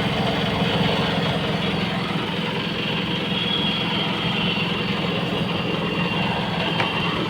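Split air conditioner's outdoor unit running with the system under gas, its compressor and fan giving a steady, even hum.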